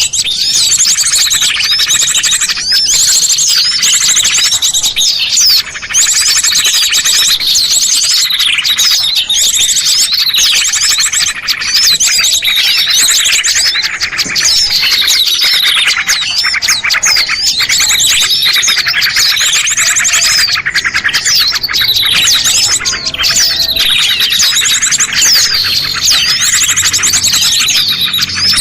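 Dense, loud chorus of many small birds chirping and twittering, with overlapping high calls and trills. It is a bird-lure (pikat) recording of small songbirds.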